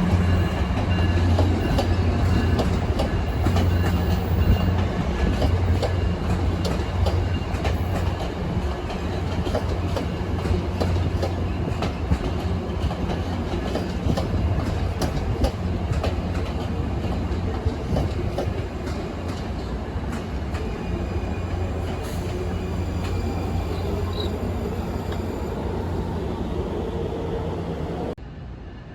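A train rolling past, its wheels clicking over the rail joints above a steady low hum. The sound fades a little late on, then drops off abruptly near the end.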